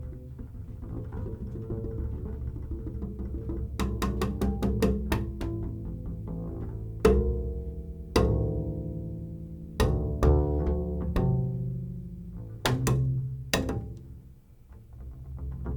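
Live jazz piano trio of piano, double bass and drums playing, with a low double bass line throughout. From about four seconds in come sharp struck accents, some followed by ringing chords that die away.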